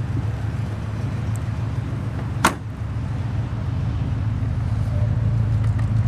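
1967 Cadillac Eldorado's 429 V8 idling through its true dual exhaust, a steady low drone. A single sharp knock about two and a half seconds in.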